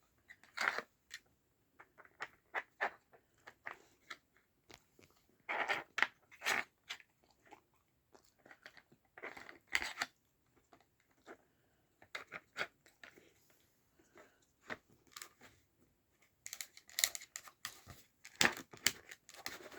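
Dog working a Nina Ottosson 'Rainy Day' plastic treat puzzle: irregular short clicks and knocks as the plastic pieces are pushed and nudged, mixed with chewing and crunching, which grow busier near the end.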